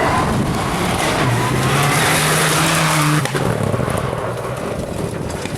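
Rally car driven hard, its engine pitch climbing and stepping through gear changes, with a loud hiss of tyre and gravel noise that is strongest about two to three seconds in and then falls away.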